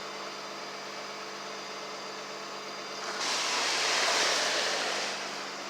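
A vehicle passing on a slushy, snow-covered road: tyre hiss swells up about three seconds in and fades away, over a steady low hum.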